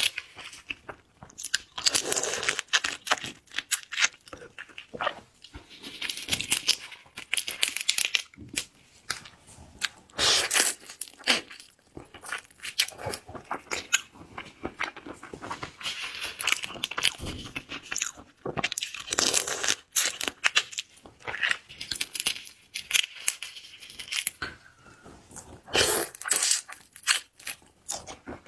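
Close-miked crunching and chewing of a big shrimp, in irregular flurries of crisp crackles and wet chews.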